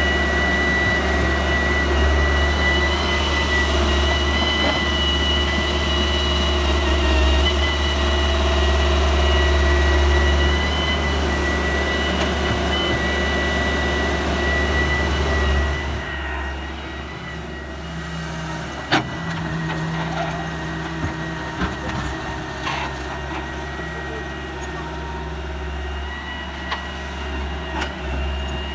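Heavy diesel machinery running steadily: a deep engine drone with a thin high whine over it, dropping in level a little past halfway, with a sharp knock shortly after.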